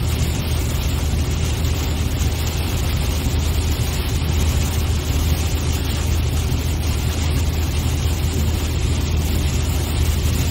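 Steady vehicle drone heard from inside a moving car: low engine and road rumble under an even hiss, with no distinct bangs or changes.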